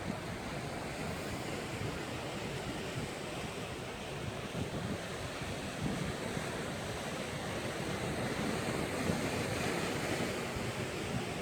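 Sea waves breaking and washing against rocks, a continuous surging wash that swells somewhat in the second half, with wind buffeting the microphone.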